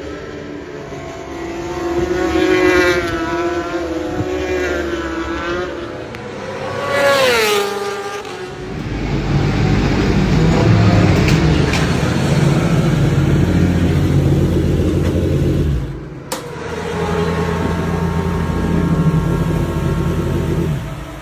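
Racing superbike engines at high revs. About seven seconds in, one passes close, its pitch rising and then dropping, followed by a louder, deeper engine rumble that breaks off briefly around sixteen seconds and then resumes.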